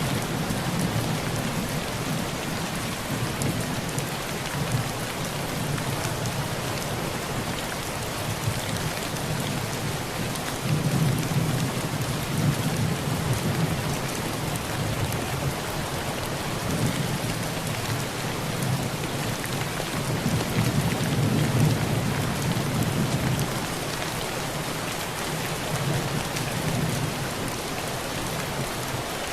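Heavy rain pouring steadily on a tin roof, a dense even patter, with low thunder rumbling underneath that swells and fades several times, loudest about a third of the way in and again after two thirds.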